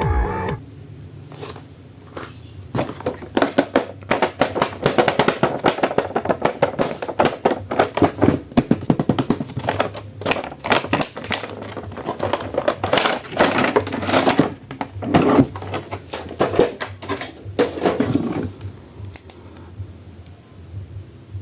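An action figure's plastic packaging being handled and opened, with dense crinkling and clicking that dies down to a few faint clicks near the end.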